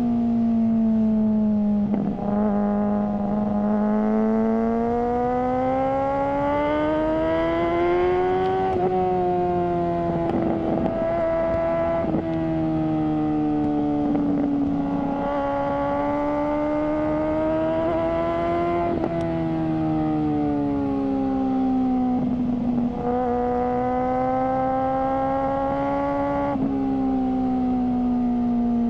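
Suzuki GSR600's inline-four engine through an aftermarket GPR Ghost exhaust, ridden at moderate revs. The engine note climbs and falls repeatedly, with a short break in the note every few seconds as the throttle is rolled off or a gear is changed.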